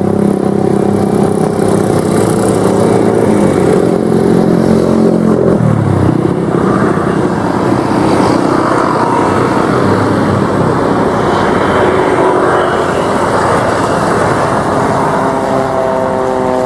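Beech G36 Bonanza propeller planes flying low past. The piston engine and propeller drone drops in pitch as one passes, about five seconds in, and a rushing noise follows. Near the end another plane's drone comes in.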